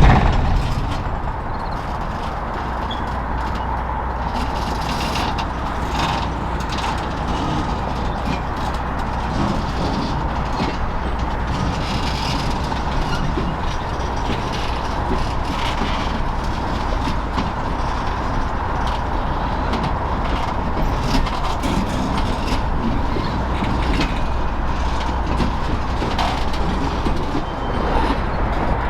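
Norfolk Southern Triple Crown RoadRailer train rolling slowly along the track. A steady high squeal runs under the rail noise, with scattered clicks and clanks.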